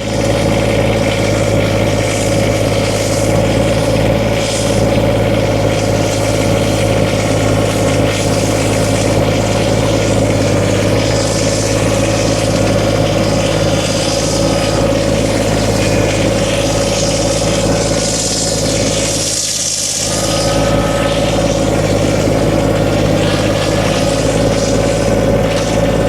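Small Kubota compact tractor's diesel engine running steadily under the loader, with a brief dip in the sound about twenty seconds in before it carries on.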